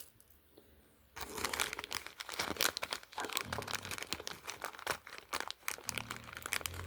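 Packaging crinkling and crackling as it is handled and unwrapped, starting about a second in after a few faint clicks.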